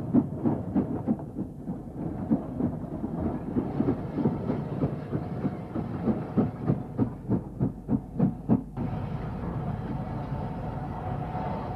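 Steam train running, with regular rhythmic beats about three to four a second. About nine seconds in, the beats give way to a steadier rumble with a faint held tone.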